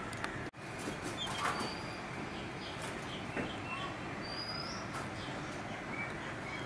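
Small birds give short high chirps and whistles now and then over a steady hiss, with a few soft rustles and clicks. The sound cuts out for an instant about half a second in.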